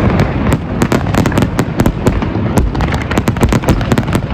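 Fireworks going off in quick succession: many sharp cracks and pops, several a second, over a continuous rumble of booms.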